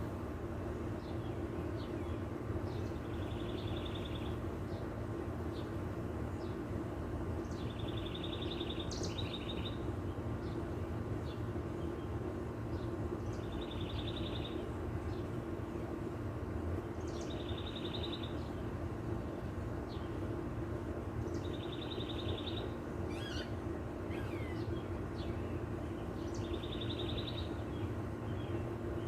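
A bird repeating a short, rapid trill about every four to five seconds, six times, with other birds' brief chirps scattered between, over a steady low background hum.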